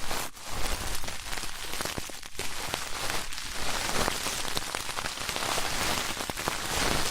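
Close-miked ear-cleaning ASMR: an ear pick or brush scratching and rubbing at the microphone, a steady dense crackle of fine ticks like rain pattering.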